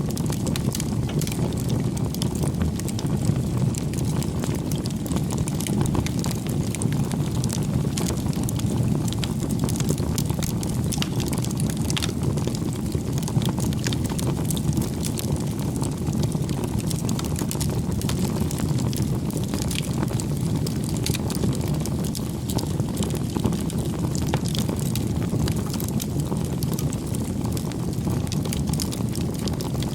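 Wood fire burning with a steady low rumble of flames and frequent small crackles and pops scattered throughout.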